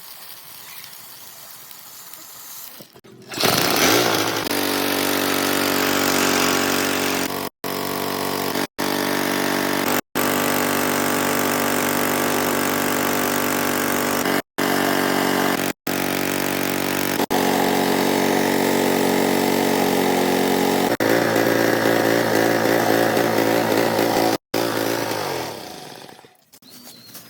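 Motorcycle engine driving a sattu-grinding mill, a loud steady mechanical running sound that starts about three seconds in, with several abrupt short breaks, a shift in tone about three quarters of the way through, and a fade near the end.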